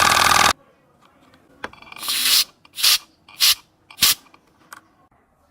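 A homemade air compressor's motor running, then cutting off sharply about half a second in; after a pause come four short blasts of hissing air and a last faint puff, the first blast the longest.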